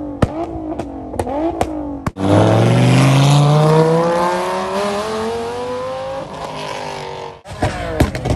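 Car engines revving in short blips, each with a sharp crack, then a hard cut to one car accelerating hard in a single long pull, engine pitch climbing steadily. Near the end, another cut brings back quick revs and cracks.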